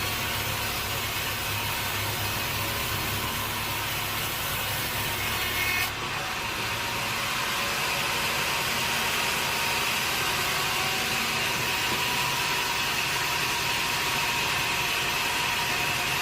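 Sawmill machinery running steadily, with a low engine hum at first. About six seconds in, the sound switches abruptly to a saw cutting wood, with a steady high whine over the cutting noise.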